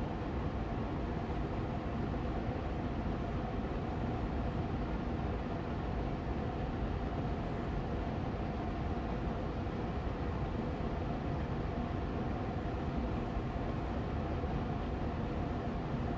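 Austin Air Allergy Machine air purifier fan running steadily on medium speed: an even rushing noise with a faint hum and no change.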